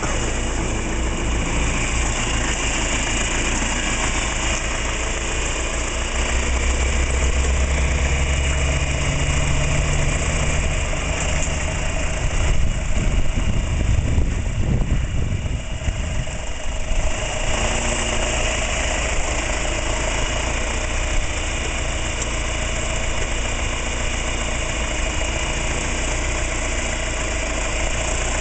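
1972 John Deere 3020's four-cylinder diesel engine running, mostly at a steady idle, with a louder, rougher stretch about halfway through before it settles back.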